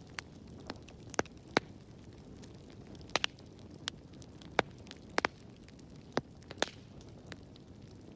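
Wood fire burning in a fireplace: irregular sharp crackles and pops over a soft steady rumble of the flames.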